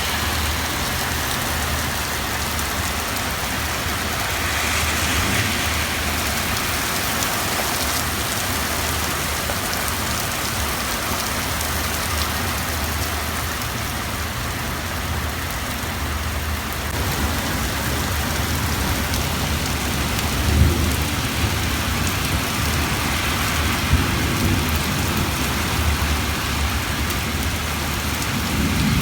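Heavy rain pouring steadily onto surfaces, with low rumbles of thunder swelling about two-thirds of the way in and again near the end.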